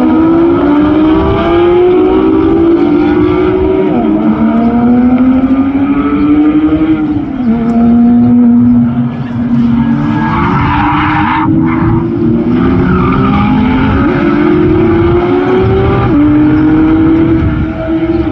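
High-revving supercar engine accelerating hard through the gears. Its pitch climbs and then drops sharply at each upshift, about four times. A brief rushing noise comes about ten seconds in.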